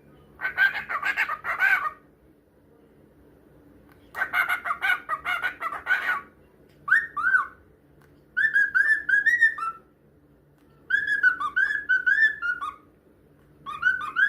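Cockatiel vocalising: two bursts of rough, rapid chatter, then whistled song in four short phrases of rising, gliding notes, each phrase lasting one to two seconds.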